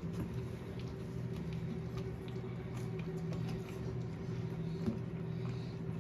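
Puppies lapping and nosing at a bowl of milk: soft scattered wet clicks and patters, over a steady low hum.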